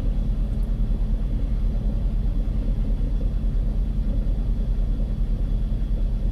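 Car driving along, with a steady low rumble of road and engine noise.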